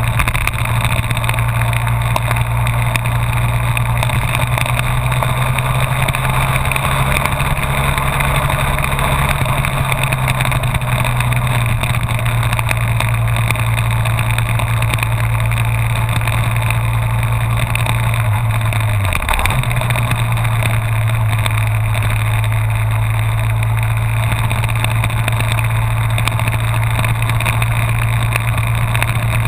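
Honda VFR1200F's V4 engine running at a steady cruise under a constant rush of wind and road noise. The engine note dips briefly about two-thirds of the way through, then settles back slightly lower.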